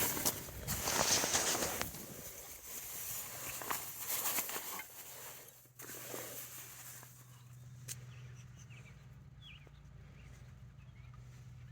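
Rustling and handling noises with footsteps in the first two seconds, easing off. After a sudden drop about halfway through, there is a quiet stretch with a steady low hum and a few faint chirps.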